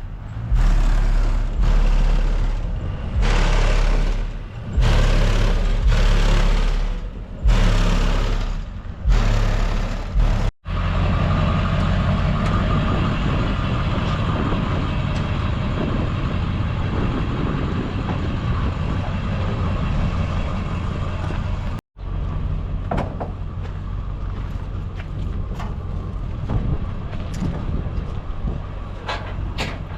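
Car engines revving in repeated short bursts for about the first ten seconds, then a steadier engine running sound. The sound cuts off sharply twice, once about ten seconds in and again about twenty-two seconds in.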